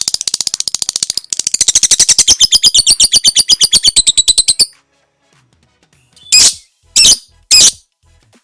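Lovebird 'ngekek': a long, rapid chattering trill of sharp, high, evenly spaced notes that breaks off after about four and a half seconds. After a short pause come three short shrill calls about half a second apart.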